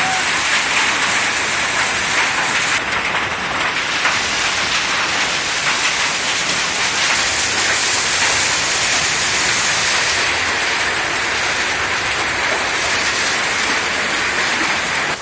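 Heavy rain falling steadily, a dense even hiss; its texture shifts slightly about three seconds in and again around ten seconds in.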